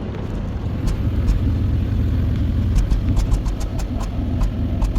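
2012 Hyundai Azera's 3.0 V6 idling unevenly, with irregular 'chik chik' ticks over the low engine rumble: the sound of a random/multiple-cylinder misfire (code P0300).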